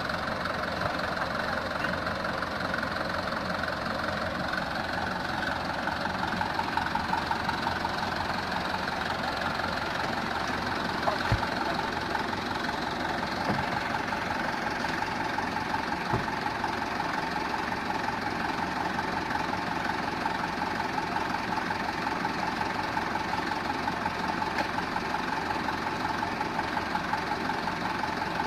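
Mitsubishi Canter truck's diesel engine running steadily with a clattering note. A sharp knock comes about 11 seconds in, and another about 16 seconds in.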